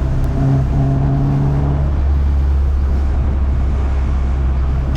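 Ford Mk1 Escort rally car's engine running steadily on the move, heard from inside the cabin, its tone shifting slightly in the first couple of seconds and then holding even.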